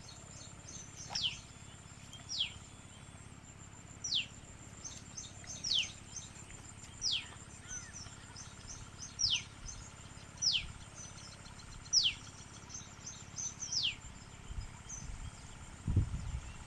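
A bird repeats a single sharp whistle that slides downward, about every second and a half, over the steady high drone of insects. Near the end, a low rumbling noise comes in.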